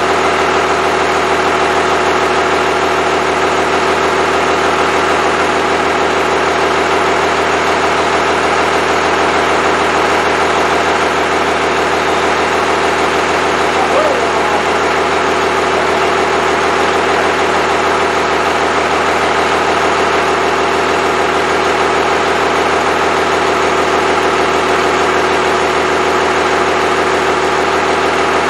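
Freshly rebuilt Cummins 5.9L 12-valve inline-six diesel engine running steadily at an even speed.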